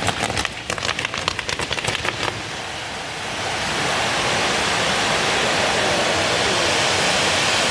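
Fireworks crackling in a rapid, dense volley of small bangs for about two seconds, then giving way to a steady rushing hiss that swells and holds.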